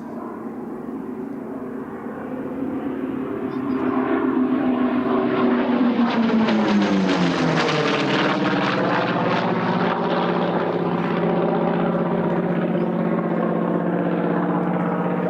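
Chance-Vought F4U Corsair's Pratt & Whitney R-2800 radial engine and propeller in a low flypast. The engine grows louder, and its pitch drops about six to eight seconds in as the plane passes. It then runs on steadily at the lower pitch.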